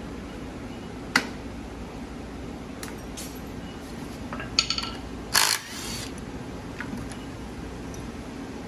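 Metal motorcycle parts and tools being handled and set down on a shop surface: a sharp click about a second in, a few light clinks, a short ringing metallic clink a little past the middle, then a brief clatter, the loudest sound, over a steady hum.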